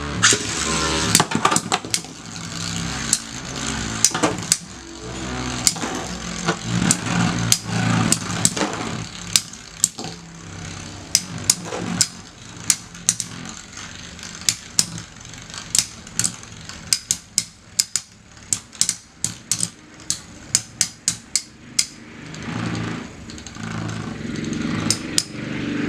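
Two Metal Fight Beyblade spinning tops, Basalt Horogium and Lightning L-Drago, are launched into a stadium, where they spin with a steady whir. They clash again and again in sharp metal clacks, sometimes in quick runs of several hits.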